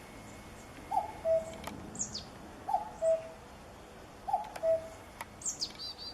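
A bird repeating a short two-part call three times, about every one and a half to two seconds: a quick falling note, then a held lower note. Another bird adds a couple of thin, high, falling chirps.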